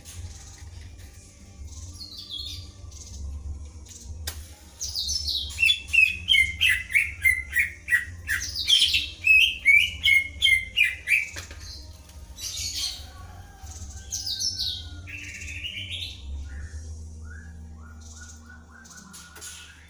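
Greater green leafbird and white-rumped shama singing in alternation. A loud stretch of rapid, falling whistled phrases fills the middle, with scattered calls before and after. A steady low hum runs underneath.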